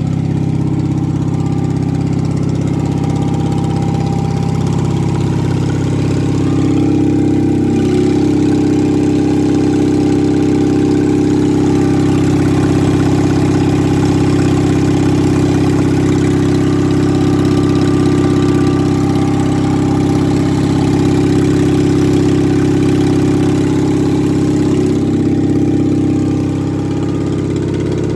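1971 Gravely 450 walk-behind tractor's engine running steadily on its freshly rebuilt carburettor. The engine picks up slightly about seven seconds in and eases back down near the end.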